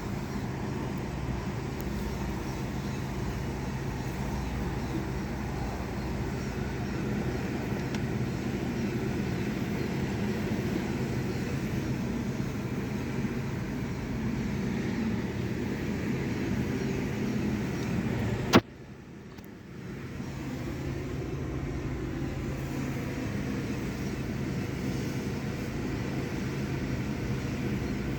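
Steady running of a Sonny's car wash tunnel: an even mechanical rumble with a hiss over it. About two-thirds through there is one sharp click, the sound drops away for a moment, then builds back up.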